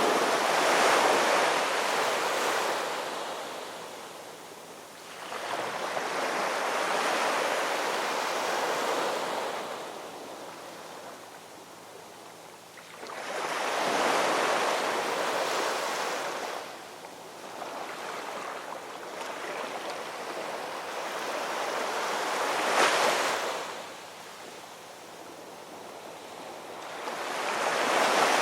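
Ocean waves rolling in and washing back, a swell every five or six seconds that rises and falls away; one breaks with a sharper crash about 23 seconds in.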